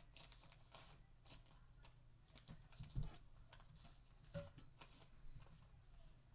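Faint rustling and crinkling of a sheet of paper being folded and creased by hand, with a couple of soft thumps, the louder one about three seconds in.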